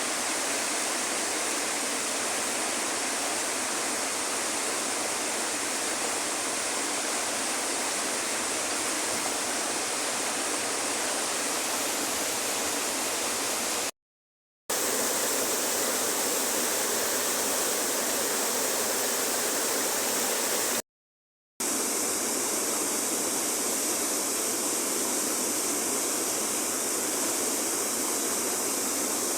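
River water rushing steadily, a dense even hiss of flowing water. It cuts out completely twice, for about half a second each, about halfway through and again some seconds later, where the recording is spliced.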